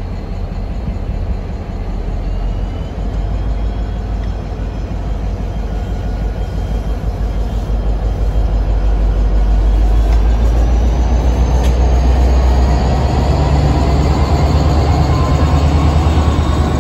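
MBTA commuter train passing close: the coaches' wheels roll over the rails, then the diesel-electric locomotive comes alongside, its engine drone growing louder toward the end. A faint high whine rises over the last few seconds.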